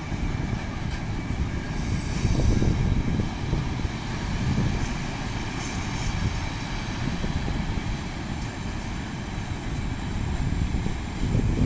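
A train passing by, a continuous low rumble that swells about two seconds in and again near the end, with faint steady tones above it.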